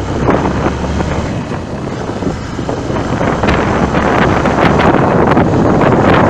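Wind buffeting the microphone in gusts over the rumble of passing road traffic, growing louder toward the end.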